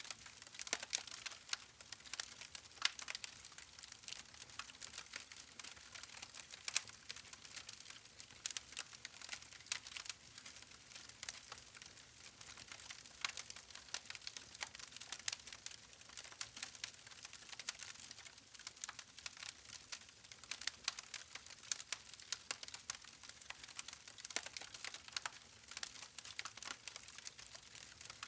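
Wood fire crackling: a steady stream of irregular sharp pops and snaps from the burning logs over a soft hiss, some pops louder than the rest.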